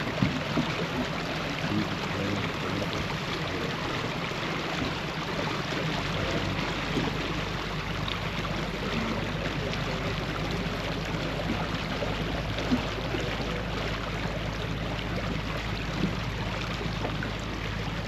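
Steady hiss of rain and rushing water, with a low rumble underneath.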